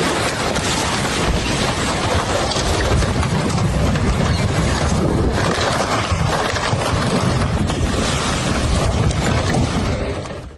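Floodwater rushing in a loud, steady torrent. It cuts off suddenly at the end.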